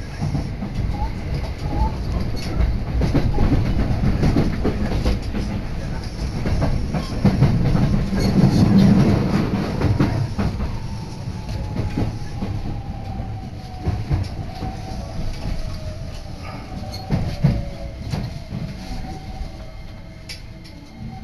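An electric commuter train on the JR Kobe Line, heard from inside the carriage: a running rumble with clicks of the wheels over rail joints. From about halfway through, a tone slides slowly down in pitch and the noise eases off as the train slows into a station.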